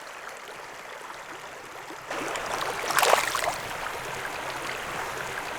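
Creek water flowing steadily, becoming louder about two seconds in, with a brief louder surge of water sound about three seconds in.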